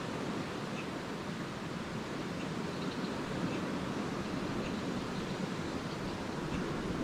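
Small lake waves washing steadily onto a beach, a continuous rushing wash, with a few faint, short high chirps of swallows scattered through it.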